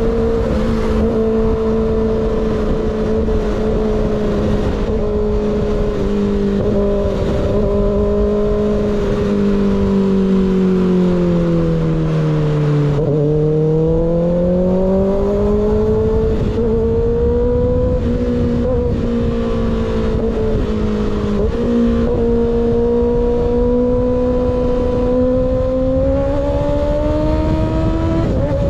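Sport motorcycle with a baffle-less M4 GP19 slip-on exhaust running under way. Its note eases down to a low point about halfway through, then climbs back up steadily, with wind rushing over the microphone.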